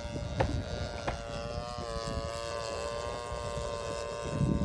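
Radio-control model airplane in flight, its motor and propeller giving a steady whining drone that wavers slightly in pitch, over low wind rumble on the microphone.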